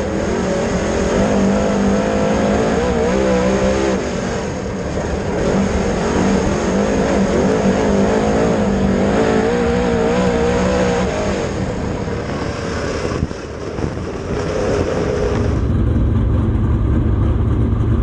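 Dirt late model race car's engine running hard, its revs rising and falling over and over as it laps. About fifteen seconds in, it drops to a lower, steadier rumble.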